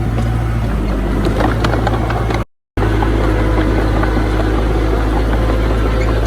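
Diesel engine of heavy earthmoving machinery running steadily with a low hum, with light metallic clatter in the first couple of seconds. The sound drops out completely for a moment about two and a half seconds in.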